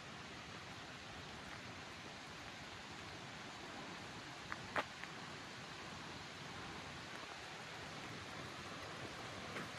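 Steady even hiss of outdoor forest ambience, with two sharp clicks about halfway through and a fainter one near the end.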